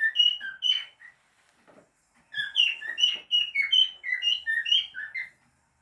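Cockatiel singing a whistled song of short notes that alternate between a lower and a higher pitch, in a short phrase at the start and a longer phrase after a pause of about a second.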